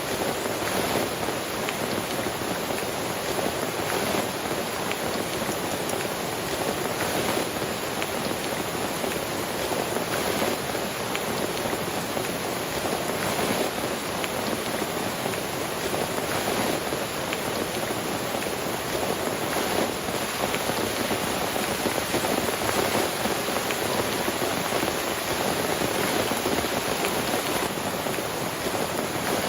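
Steady rain falling on a tent, with many individual drops ticking close by.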